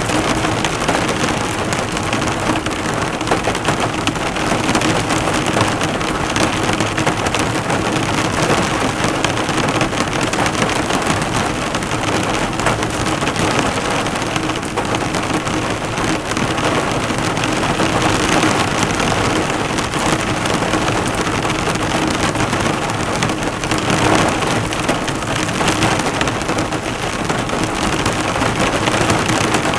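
Heavy rain falling steadily on a car's bonnet, drops bouncing off the metal.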